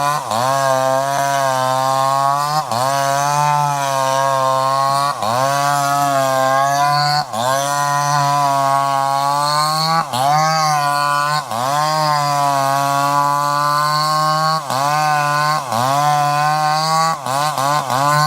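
Two-stroke chainsaw engine running at high revs; every two seconds or so the revs dip briefly and climb back, with a few quick dips near the end.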